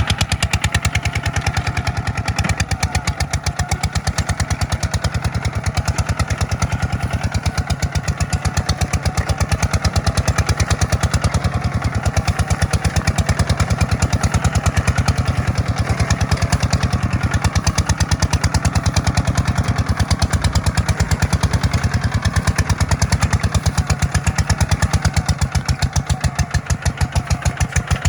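Tractor's diesel engine running steadily with an even, rapid pulse, a little louder from about ten seconds in.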